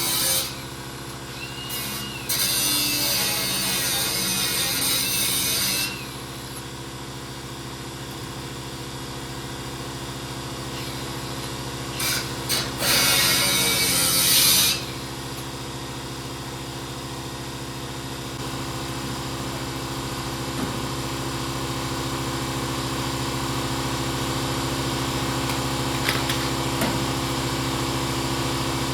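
A power tool cutting into the steel bed side of a 1978 Ford F100 in two bursts, one of about four seconds and one of about three seconds. A steady machine hum runs underneath throughout.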